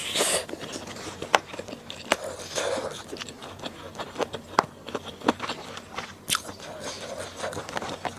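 Close-miked eating: chewing with many wet mouth clicks and smacks at an uneven pace.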